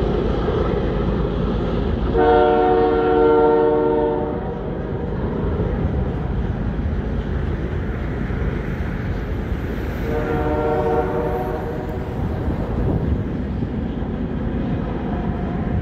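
Freight train rolling past with a steady low rumble from its cars. Its horn sounds twice, a chord of several notes: a blast of about two seconds starting about two seconds in, and a shorter one about ten seconds in.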